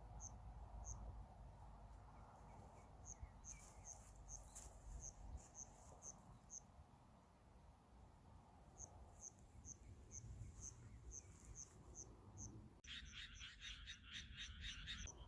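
Faint crickets chirping: short high chirps repeated about twice a second in runs. Near the end a denser, slightly louder chorus of chirps comes in.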